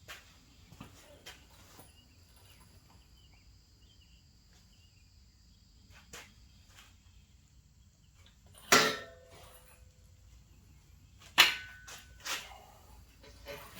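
A few metallic clanks and clicks of tools and hardware being handled while fitting a transaxle to an engine stand, with two sharp clanks that ring briefly, one about two-thirds through and a louder one near the end.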